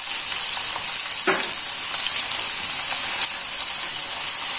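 Freshly added chopped onion sizzling steadily in hot oil with cumin seeds in a kadai. A wooden spatula stirs through it in a couple of short strokes, about a second in and again near the end.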